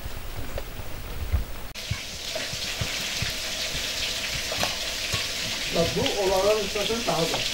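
Food sizzling and crackling steadily as it fries in hot oil, starting suddenly about two seconds in after a low rumble. Near the end a short wavering call rises over the sizzle.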